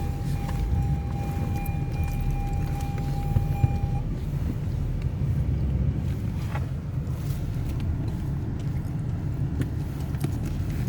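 Steady low rumble of a motor vehicle, with a thin steady tone that stops about four seconds in.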